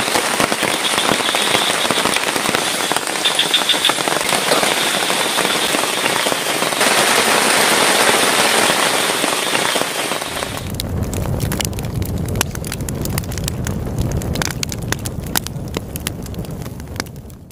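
Heavy rain falling in a dense, steady hiss. About ten seconds in the sound changes to a lower rumble with many sharp pops and crackles, then cuts off suddenly at the end.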